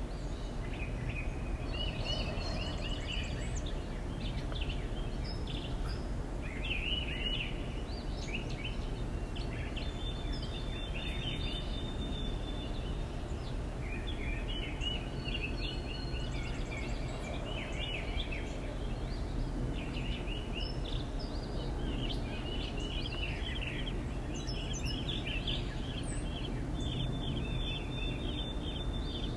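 Backyard songbirds chirping and twittering in quick repeated clusters, several calls overlapping, over a steady low background rumble.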